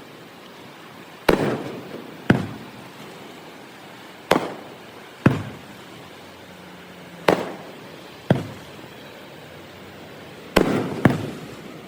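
Aerial firework shells bursting: sharp bangs in pairs about a second apart, a new pair every three seconds or so, eight in all, each trailing off in a rumbling decay.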